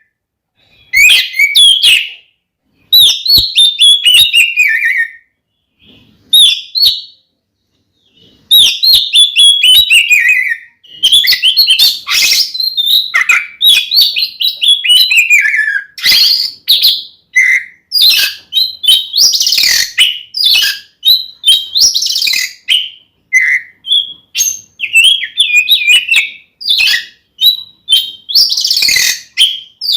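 Oriental magpie-robin (kacer) singing loud, varied phrases of quick notes, many running down in pitch, with short pauses at first and almost unbroken song from about eight seconds in. It is the excited, combative song that keepers call 'gacor tarung', the kind played to rile other magpie-robins.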